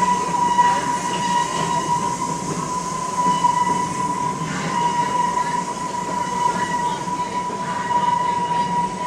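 Amusement-park steam train heard from a riding passenger car: the cars rumble along the track under a steady, high-pitched wheel squeal that holds one pitch.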